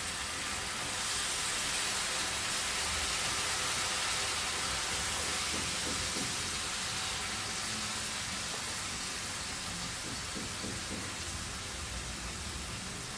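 Soy sauce sizzling and hissing in a hot frying pan. It swells about a second in, then slowly dies down.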